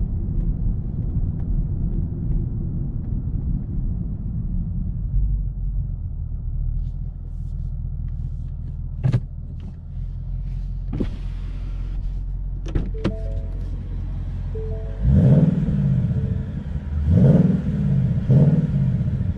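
Ford Mustang GT's 5.0 V8 running with a low, steady rumble and a few sharp clicks about halfway through. Near the end it is revved three times, each a loud rise and fall in pitch.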